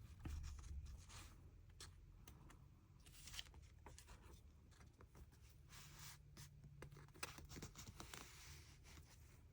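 Faint rustling and light taps of paper pieces being handled and laid on a collage journal page.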